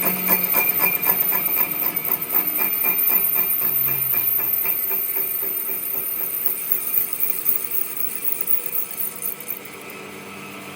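Metal being struck rapidly and evenly, about four blows a second, fading away over the first half, with a steady machine hum underneath.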